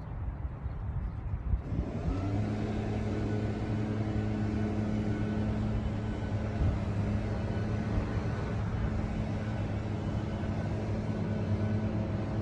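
A steady engine or motor hum sets in about two seconds in and runs on evenly.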